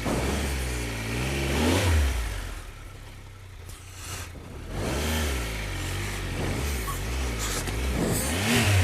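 Triumph Tiger 1200 motorcycle's three-cylinder engine revving up and down over and over as it labours up a rough, steep track. It eases off for about a second and a half a little before the middle.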